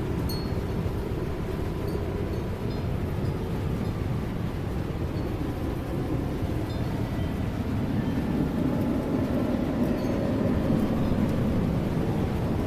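Strong gusting wind rushing over the microphone, swelling about two-thirds of the way in, with a few faint high pings through it.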